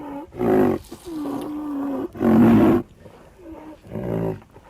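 A large animal's repeated calls: four loud, short calls about a second and a half apart, with a longer held note after the first, the loudest call about two and a half seconds in.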